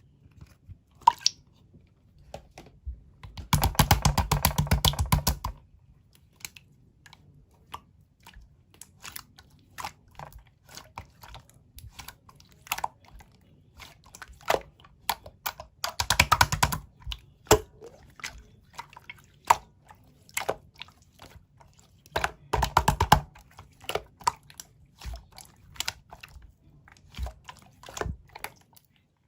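Slime being squished and pressed by hand: scattered wet clicks and pops, with three bursts of rapid crackling, at about 4 seconds, 16 seconds and 23 seconds in.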